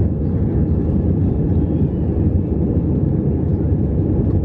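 Jet airliner engines and air rush heard from inside the passenger cabin: a steady, loud, low roar.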